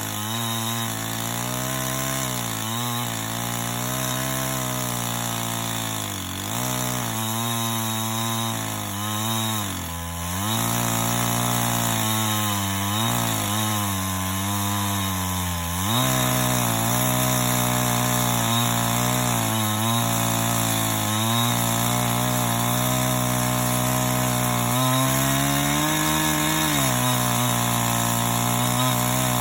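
Two-stroke chainsaw fitted with a chainsaw mill, running under load as it rips a log lengthwise into planks. The engine speed wavers and sags several times in the first half as the cut loads it, then holds steady at high speed through the second half.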